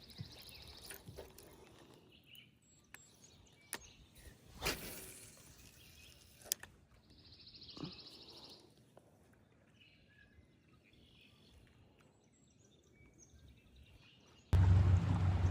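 Quiet open-air ambience with scattered clicks and knocks and two short trilled bird calls. Near the end the low, steady drone of a boat motor cuts in suddenly and is the loudest sound.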